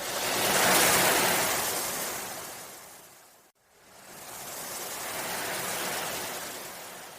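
Sea waves washing in, two swells of rushing surf: the first peaks about a second in and dies away by the middle, the second builds more gently and fades near the end.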